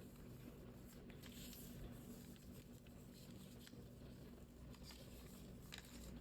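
Faint rustles and small crinkling ticks of a sheet of origami paper being folded and creased by hand, over a low steady hum.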